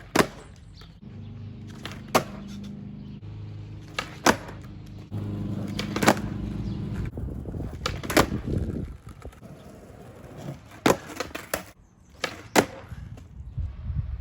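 Skateboard on pavement: sharp clacks of the board popping and slapping down, about seven times with some in quick pairs, between stretches of the wheels rolling with a steady low rumble.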